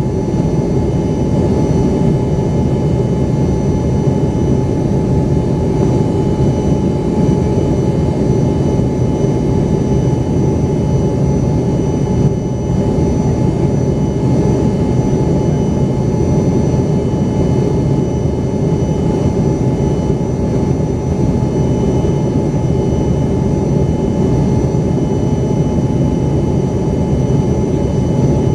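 Embraer ERJ-135's rear-mounted Rolls-Royce AE 3007 turbofans heard from inside the cabin: a loud, steady jet drone with a thin, constant whine over it, holding at an even power setting.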